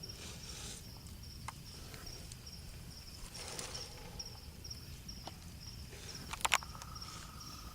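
Crickets chirping steadily in a fast, even high-pitched pulse, with a few sharp clicks about six and a half seconds in.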